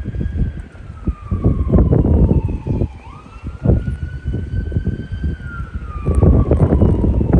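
An emergency vehicle siren wailing, its pitch sliding slowly down, jumping back up about three seconds in, then rising and falling again. Wind buffets the microphone underneath it.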